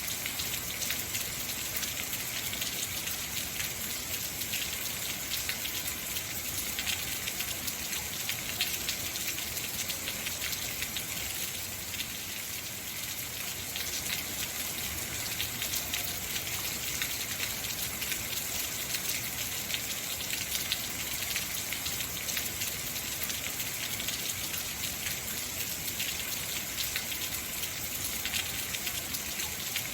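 Heavy rain falling steadily: a dense, even hiss of drops with countless fine patters.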